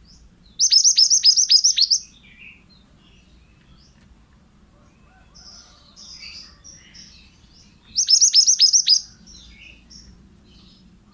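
Pied bushchat (burung mantenan) singing: two loud bursts of quick, high, downward-sweeping notes, each lasting about a second, one near the start and one about 8 seconds in, with faint scattered chirps in between.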